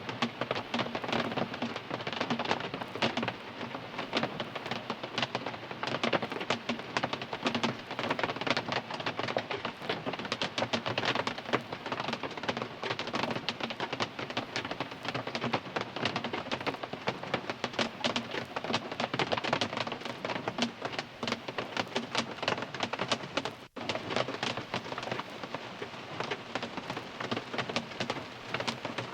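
Heavy rain falling on a car's roof and windows, heard from inside the car: a dense, steady patter of countless individual drops.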